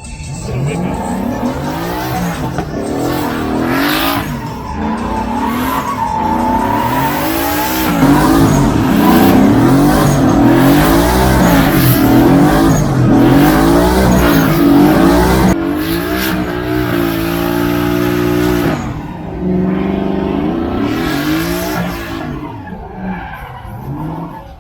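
A truck engine revved hard up and down again and again with tyres squealing, as in a burnout. The revs hold steady for a couple of seconds past the middle, pick up again, then drop away near the end.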